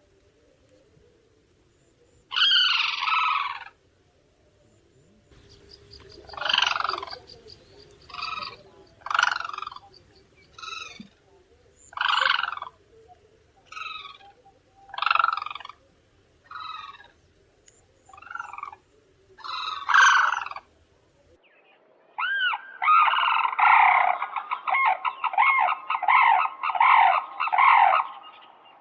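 Common cranes calling: loud trumpeting calls, each about a second long, repeated every second or two. Near the end they run together into a fast stretch of many overlapping calls.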